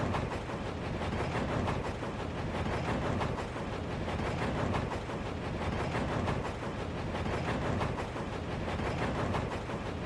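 A train running along the track: a steady, dense rattling clatter of rapid fine clicks.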